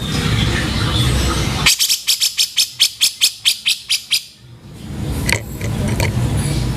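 Cucak jenggot (grey-cheeked bulbul) giving a harsh, rapid chattering call of about a dozen rasping notes, roughly five a second, for a couple of seconds from near the second mark. Over a steady rumbling background.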